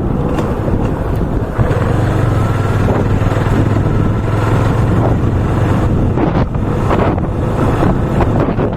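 Motorcycle engine running at a steady cruising speed, its low hum steadying about one and a half seconds in, under heavy wind noise on the microphone.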